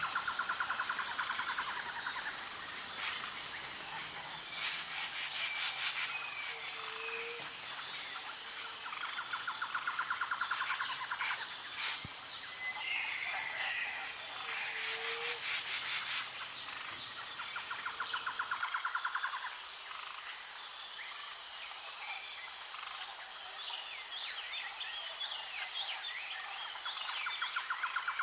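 Nature soundscape: a steady high insect drone throughout, with a pulsed trill coming back every several seconds and scattered short bird calls and chirps.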